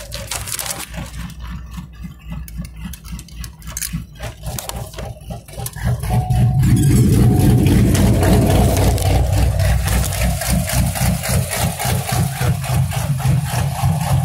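Fox-body Mustang GT's Ford 302 V8 heard from inside the car, idling with a low rumble. About six seconds in it rises in pitch and gets much louder as the throttle opens, then runs on at that louder level with a pulsing exhaust note.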